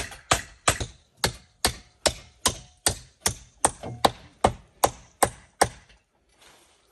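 Sharp chopping blows, about fifteen at an even pace of roughly two and a half a second, which stop about five and a half seconds in.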